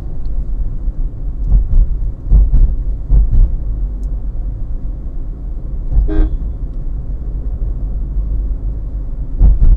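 Car driving on the road, a steady low rumble with several low thumps, and a short car horn toot about six seconds in.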